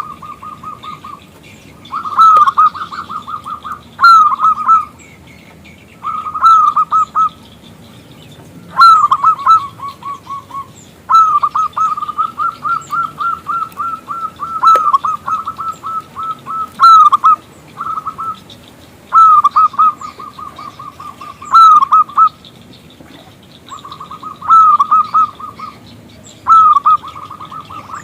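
Zebra dove (perkutut) singing: a series of quick cooing phrases, each a louder opening note followed by a fast run of repeated notes, about one to two seconds long with short pauses between. Faint chirps of other small birds sound in the background.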